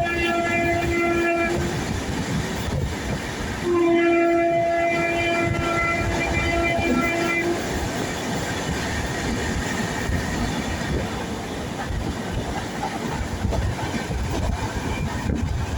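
A train's horn sounds twice: one steady note that stops about two seconds in, and another from about four seconds to seven and a half. Under both, the train runs along the rails with a continuous rumble and clatter.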